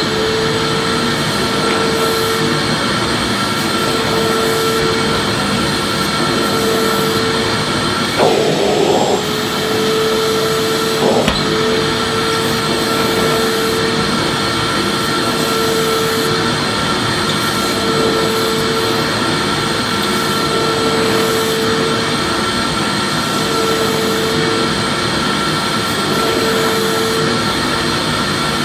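Vacuum cleaner running steadily: a continuous rushing hiss with a steady high whine, and a lower hum that swells and fades about every two seconds. A short knock comes a little before the middle.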